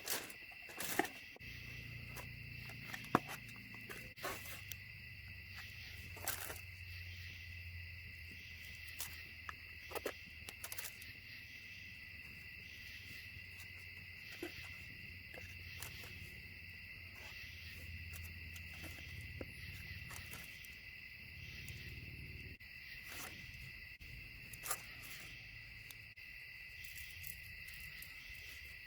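A steady insect chorus chirring without a break, with scattered sharp clicks and crackles over it and a low rumble that fades out near the end.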